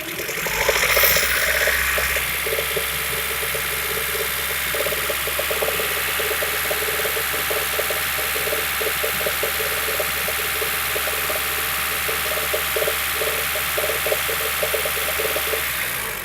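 Honda B20B 2.0-litre four-cylinder engine running steadily, with irregular light ticking over the engine note; it swells about a second in and falls away near the end. The engine is being checked for a knock that shows only on a cold start and at 1500–1700 rpm with very hot oil, not at idle.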